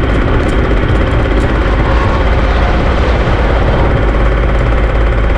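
Pit bike's small engine running steadily at an even, low speed, close to the microphone.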